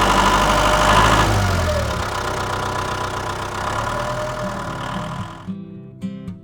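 A vehicle engine running at idle, louder for about the first second and then settling steady. It fades out near the end as plucked guitar music begins.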